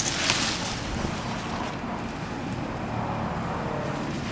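Wind blowing across the microphone: a steady rushing noise, louder for a moment at the start.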